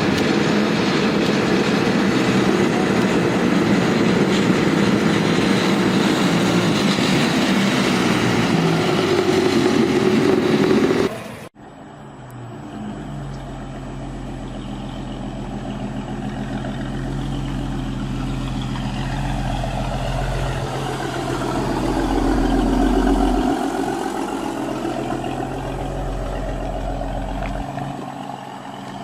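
Small motorized car engines: one runs loudly for about eleven seconds, then cuts off abruptly to another engine running more quietly with a steady low hum, which swells and fades again about two-thirds of the way through.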